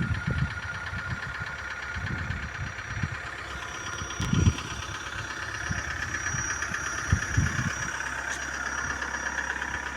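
Vehicle engine running steadily, with irregular low thumps and bumps.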